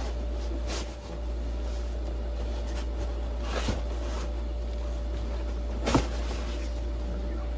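Cardboard fan packaging being handled: three brief knocks and rustles, the sharpest a little after the middle, over a steady low electrical hum.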